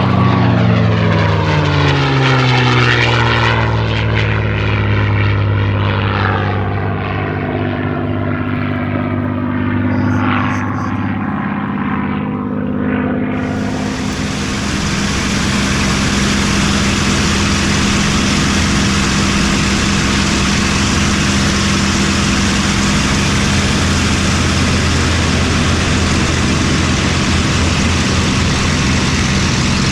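Piston warbird's V12 engine, likely the P-51 Mustang's Packard Merlin, passing by, its note falling in pitch as it moves away. About 13 seconds in the sound changes abruptly to a steady, even engine drone.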